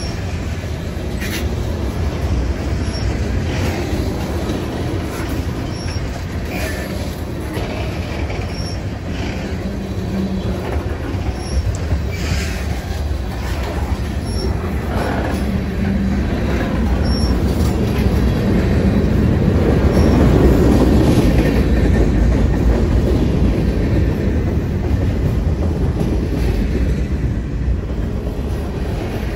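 Freight train cars rolling past on the rails: a steady rumble with scattered short clanks and squeaks, growing louder around twenty seconds in and then easing off.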